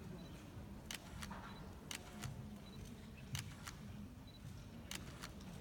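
Camera shutter clicking repeatedly, mostly in quick pairs about every second or so, over a low background rumble.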